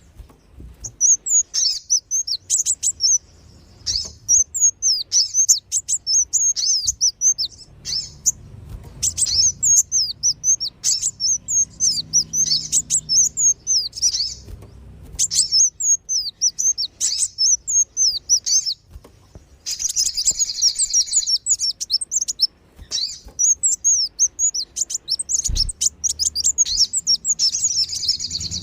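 Lure recording of kolibri wulung and sogon birds calling. Rapid, high, sharp chirps come in busy bursts a few seconds long, broken by short pauses.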